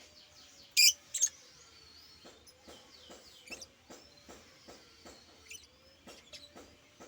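A pet bird gives two sharp, loud chirps about a second in, then a string of faint clicks about two or three a second, with faint high whistles.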